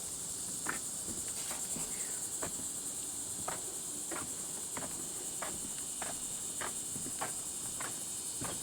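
A steady, high-pitched chorus of insects, with footsteps falling about twice a second.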